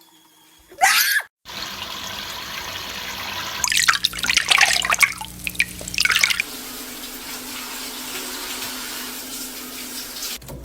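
Tap water running steadily, with bursts of splashing between about four and six seconds in as a parrot bathes in the stream. A short loud sweep comes about a second in, just before the water starts.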